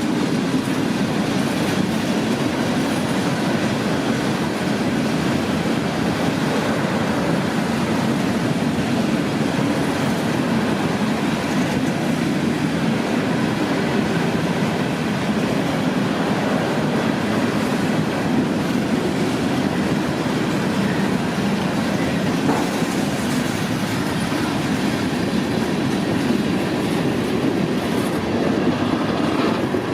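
Freight cars of a CSX manifest train rolling past in a steady rumble of wheels on rail.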